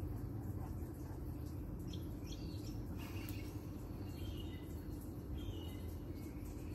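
Outdoor background of faint bird chirps over a steady low hum, with a few light clicks about two to three seconds in.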